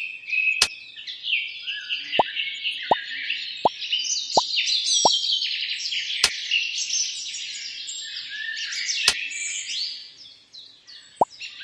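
Birds chirping and singing continuously, with a run of short falling 'plop' tones about every 0.7 s for a few seconds, more of them near the end, and a few sharp clicks.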